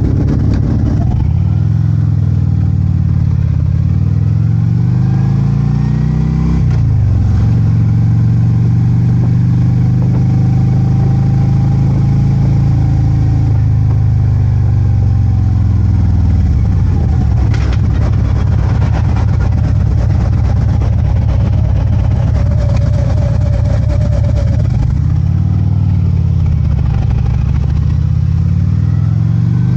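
Harley-Davidson Ultra Limited's V-twin engine under way on the road, pitch climbing as it accelerates in the first few seconds, dropping sharply around six seconds in, holding steady while cruising, falling again around sixteen seconds, then rising and falling once more near the end, with steady road and wind noise underneath.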